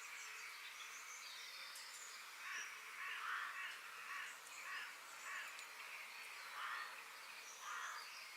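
Wild birds calling: a run of short, rough calls repeated every half second to a second or so from about two and a half seconds in, over thin high chirps and a steady hiss.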